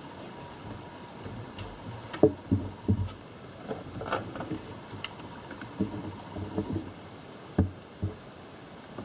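Irregular knocks and clunks of hands handling tools and parts while working in a car's engine bay, the sharpest about two seconds in and another near the end, over a steady low hiss.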